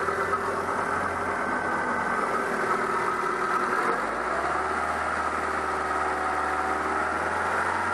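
A 2000 Mazda Protege's 1.6-litre four-cylinder engine idling steadily, just after a broken spark plug in cylinder 2 was replaced; the idle is listened to for a misfire and judged good to go. The engine note shifts slightly about halfway through.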